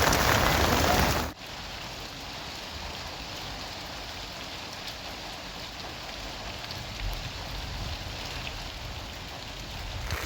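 Rain falling steadily. A louder stretch cuts off abruptly about a second in, leaving softer, even rain with a few faint drip ticks.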